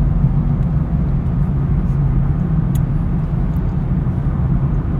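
Steady car road noise and engine hum heard from inside the cabin while driving, a low even rumble.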